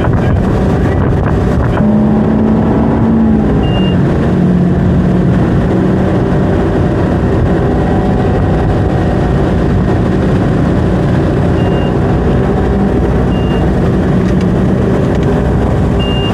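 Ski boat's engine running steadily under way, with wind and water noise. A few short, high beeps sound now and then.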